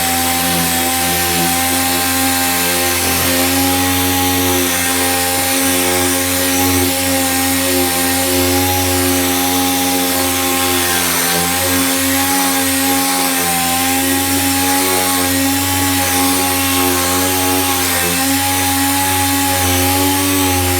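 Power sander running steadily against a metal panel, a continuous motor whine with a rough sanding hiss and a slight waver in pitch as it is pressed on.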